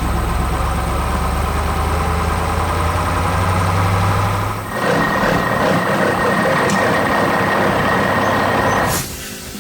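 Heavy construction machine's engine running with a steady low hum, which gives way about halfway through to a noisier, higher mechanical working sound with a thin steady whine; it stops shortly before the end.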